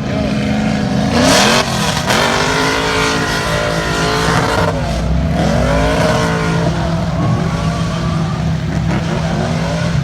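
BMW drift car engine revving hard, its pitch sweeping up and down again and again as it drifts, over a haze of tyre noise. A loud surge comes about a second in, and a steady low hum runs under the revving from about halfway.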